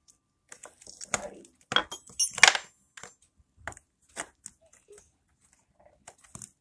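Irregular light clinks and taps of small hard objects being handled, a dozen or so sharp clicks, the loudest about two seconds in.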